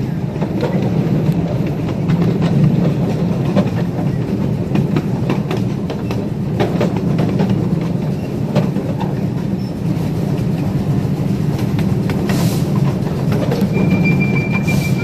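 Live-steam train rolling along the track: a steady rumble with the clickety-clack of wheels over rail joints and scattered clicks. A thin high squeal starts near the end.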